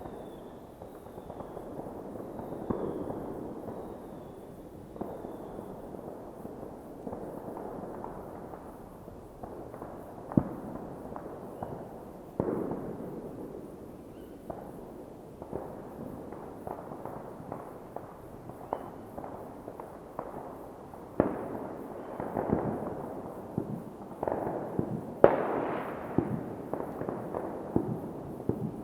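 New Year's Eve fireworks going off all around: a continuous rumble of many distant bangs, with sharper nearer bangs standing out, sparse at first and coming thick and fast in the second half. The loudest bang comes about 25 seconds in.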